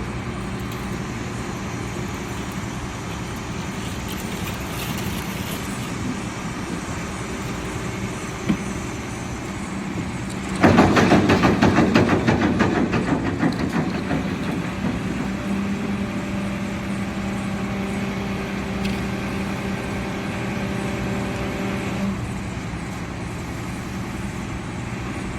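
A motor vehicle's engine running steadily. About eleven seconds in, a sudden loud burst of rapid rattling pulses sets in and fades over a few seconds, and then a steady hum carries on.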